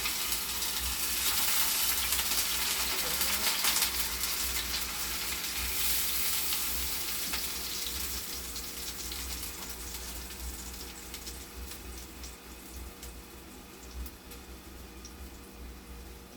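Breadfruit slices, wet from a salt-water dip, sizzling in a pan of hot oil. The frying is loudest in the first few seconds and then slowly dies down.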